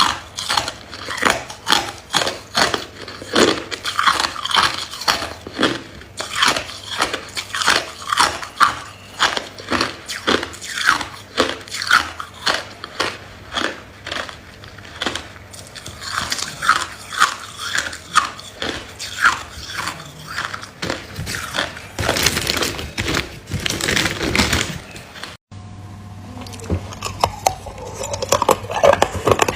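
Hard ice cubes being bitten and chewed close to the microphone: a steady run of sharp crunches, about two to three a second, breaking off briefly near the end before the crunching goes on.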